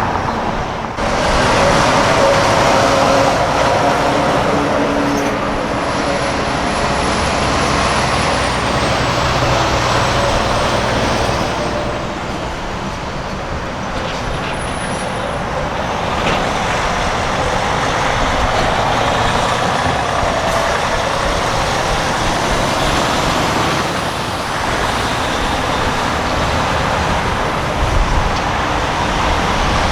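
Semi-trucks driving past, their diesel engines and tyres making a steady, loud rumble, with a faint high whistle that dips in pitch about nine seconds in.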